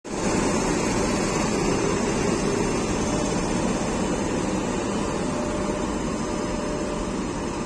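WAP-7 electric locomotive running past at the head of an express train: a loud, steady rumble of wheels on rail mixed with the hiss of its cooling blowers, easing slightly as it draws away.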